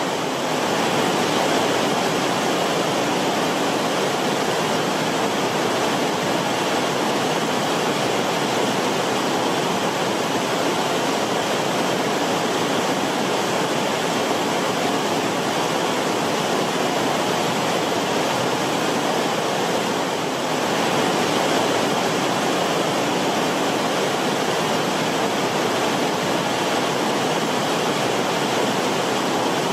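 Creek water rippling and bubbling over rocks in its bed, a steady, continuous rushing flow.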